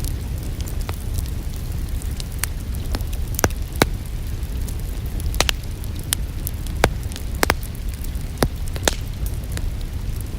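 Wood fire crackling, with irregular sharp pops and snaps over a steady low rumble and a soft hiss of rain.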